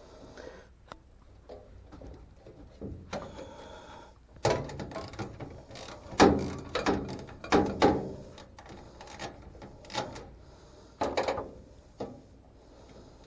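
A small 1/4-inch socket ratchet clicking as it backs out a screw. The clicks come in about five short bursts of strokes, with pauses between them.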